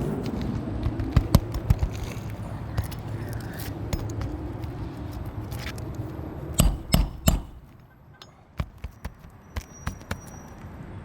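Hammer blows driving roofing nails into asphalt shingles: a few sharp strikes early, then a loud run of four quick blows a little past the middle, followed by lighter taps.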